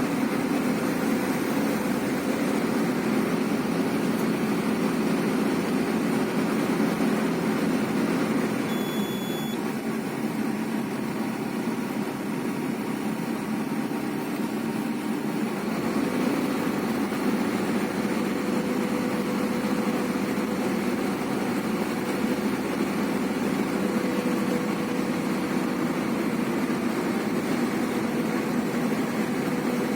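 Heavy diesel engine running steadily at idle-like speed, with a short high beep about nine seconds in.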